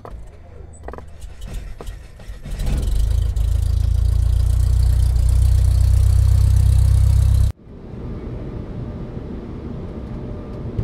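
Engine sound effect: a few small clicks, then from about two and a half seconds in a loud, steady low engine rumble that cuts off abruptly about halfway through. A softer steady noise follows.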